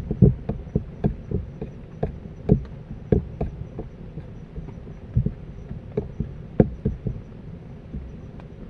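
A run of irregular dull thumps and knocks, several each second at first and then more spaced, over a faint steady background hiss.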